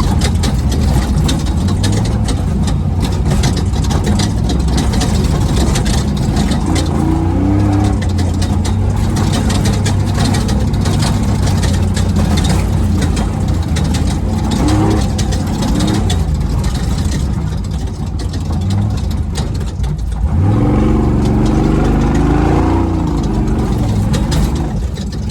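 Race truck engine running hard from inside the cab, its note climbing in several revs, the strongest near the end, over a constant noisy rush of driving.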